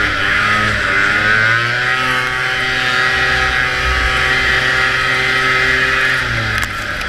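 Vintage snowmobile's two-stroke engine running at race speed: the pitch climbs over the first two seconds, holds steady, then drops about six seconds in as the throttle comes off.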